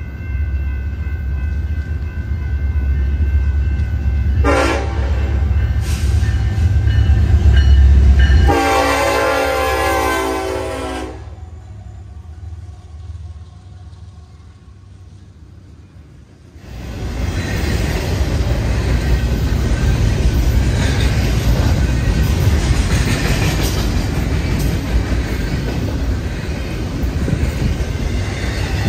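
Freight train passing: heavy rumble with the locomotive horn sounding a short blast about four seconds in and a loud long blast that ends about eleven seconds in. After a quieter stretch of cars rolling by, the loud rumble and clatter of double-stack container cars passing close cuts in suddenly about seventeen seconds in.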